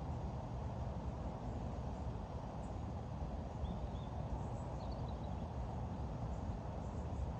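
Steady low rumbling outdoor background noise, with a few faint bird chirps about four and five seconds in and again near the end.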